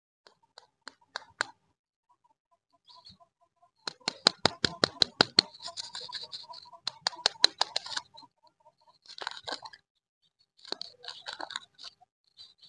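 Plastic candy packaging being handled and unwrapped: sharp clicks and snaps with crinkling, including two fast runs of loud clicks in the middle and shorter bursts of rustling near the end.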